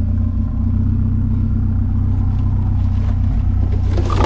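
Vehicle engine running at a steady idle, a constant low drone. Near the end a burst of clattering knocks starts.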